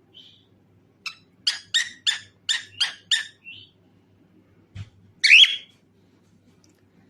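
Cockatiel calling: a quick run of about seven sharp chirps, then a short pause and one loud, harsh squawk, which is the loudest note.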